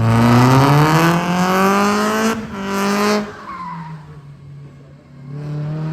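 Drift car engine revving hard, climbing in pitch for about two seconds while the tyres squeal, with a short second burst, then falling away before it revs up again near the end.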